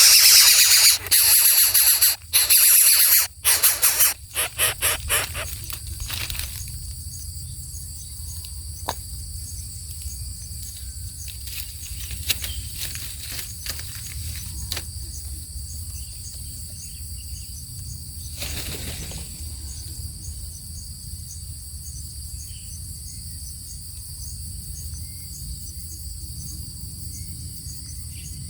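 A steady chorus of crickets trilling, with a few sharp clicks and one brief rustle. For the first few seconds a loud, noisy sound overlies it, breaking off abruptly several times before it stops.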